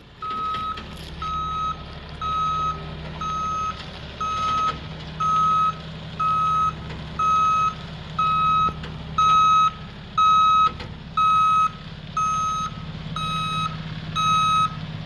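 Vehicle reversing alarm beeping about once a second, with an engine running underneath.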